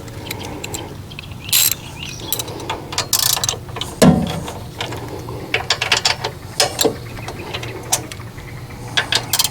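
Hand tools working on metal engine parts: irregular ratchet-like clicking with scattered clinks and a few louder knocks.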